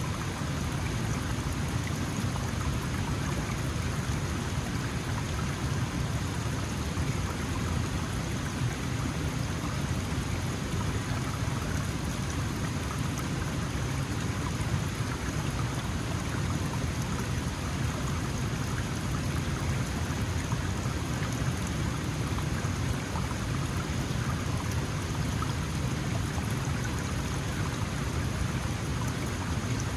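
Small mountain stream flowing over stones, a steady rush and babble of water with a deep low rumble.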